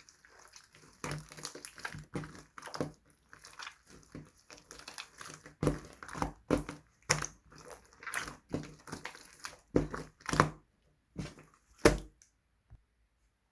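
Clay-mixed slime being squished and pressed by hand, giving irregular sticky pops and clicks with crackly stretches between them, then a pause near the end.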